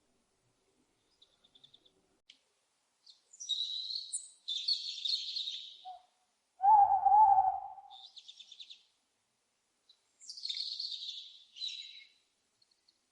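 Bird calls: several bursts of high, chirping twitter, and about seven seconds in one louder, lower owl call lasting about a second.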